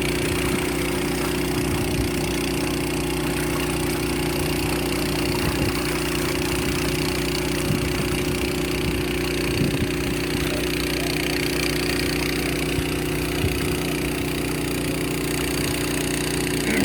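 An engine idling with a steady, even drone that holds one pitch throughout.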